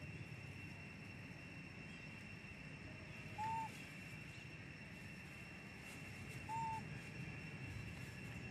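A bird calls twice, each a short, clear hooting note, about three seconds apart, over a steady high-pitched drone.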